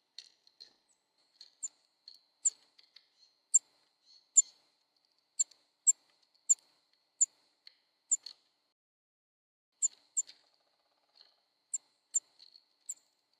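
Small bird at a seed feeder giving short, sharp, high chip notes, about fourteen of them at uneven intervals of roughly a second.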